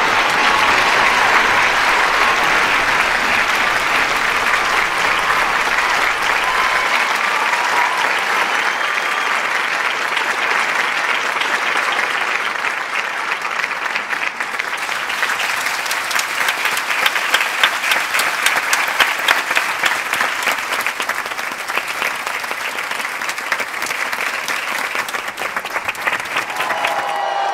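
Large audience applauding throughout, dense at first and thinning about halfway through so that individual claps stand out.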